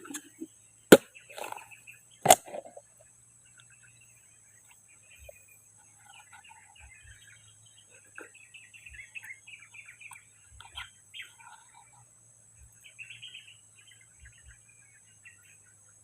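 Two sharp chopping strikes, about a second in and again about two seconds in, of a blade cutting into a young coconut. Then faint birds chirping.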